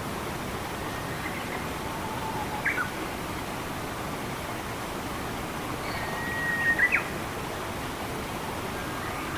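Steady rush of flowing forest stream water, with a few short bird calls: a quick chirp about two and a half seconds in, and a held whistle ending in sharp chirps near seven seconds.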